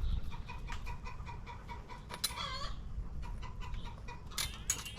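Short animal calls, one about two seconds in and another near the end, over scattered light clicks and a low rumble.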